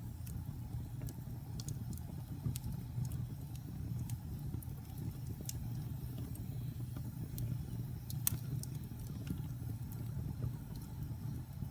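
Wood fire burning in a fireplace: a steady low rumble of flames with scattered sharp crackles and pops, one louder pop a little past the middle.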